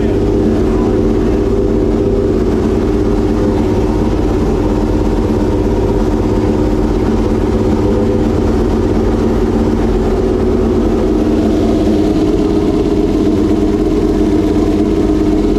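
Homemade V12 race engine idling steadily at a constant speed.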